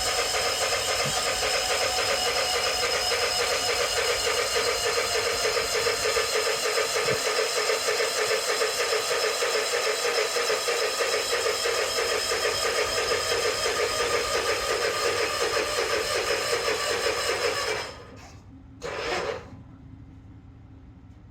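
Exmark mower's engine running steadily, then shut off abruptly about eighteen seconds in. A brief short noise follows about a second later.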